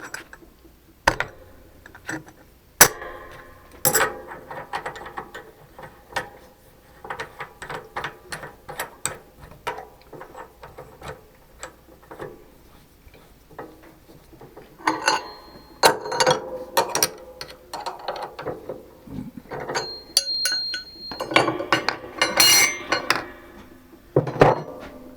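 Metal clinks, knocks and ratchet-like clicks of tools and fittings being handled while a dial indicator is set up on a machine to indicate in a hole. The impacts come irregularly, some ringing briefly, with busier clusters in the second half.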